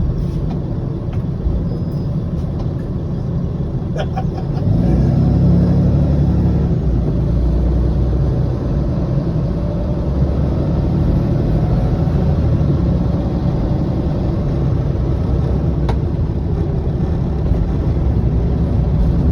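Coach bus engine and road noise, a steady low rumble that grows louder about five seconds in as the bus picks up.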